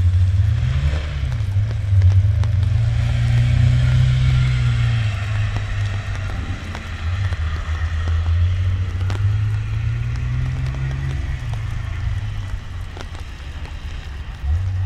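Holden VX Commodore's engine pulling hard along a hillclimb course. The pitch climbs through the gears, holds, then drops as it lifts for corners, and the sound fades as the car draws away near the end.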